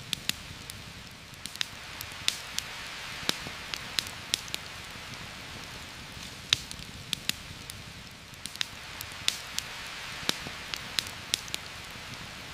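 Steady rain falling through forest foliage, an even hiss, with frequent irregular sharp clicks and pops on top of it.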